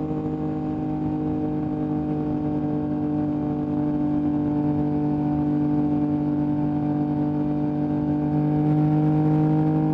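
Yamaha MT-09's inline three-cylinder engine running through an Akrapovic exhaust at a steady cruise. Its pitch rises slightly and it gets a little louder near the end.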